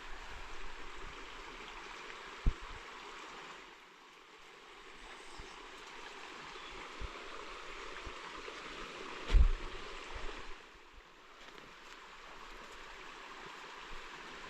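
Steady rush of running water, with two dull thumps, one about two and a half seconds in and a louder one about nine and a half seconds in.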